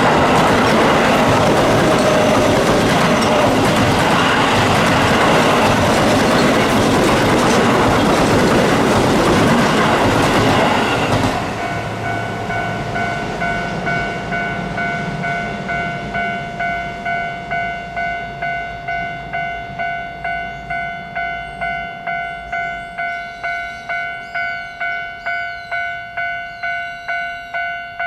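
Keio Line electric train passing over a level crossing with loud wheel and rail noise, which ends abruptly about eleven seconds in. After that, the crossing's electronic warning bell rings on steadily at about two strokes a second.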